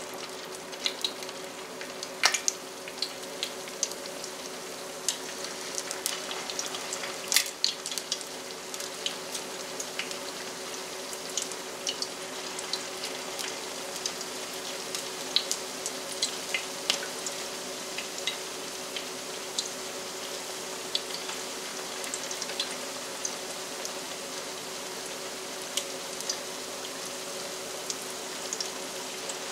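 Tuna patties frying in hot vegetable oil in a cast iron skillet: a steady sizzle with frequent sharp crackling pops.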